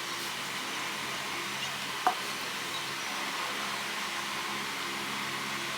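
Steady room hiss and low hum of a restaurant dining room, with one brief high squeak about two seconds in.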